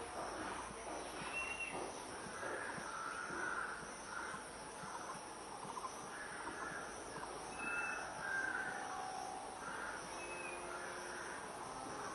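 Wild birds calling: short, harsh notes repeated about once a second, with a few brief high chirps in between, over a faint steady insect hiss.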